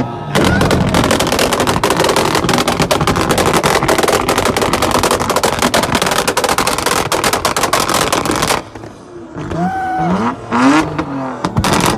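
Car engine revving hard at a rev battle, with a rapid, continuous stream of exhaust pops and crackles for about eight seconds that cuts off suddenly. After that come voices calling out.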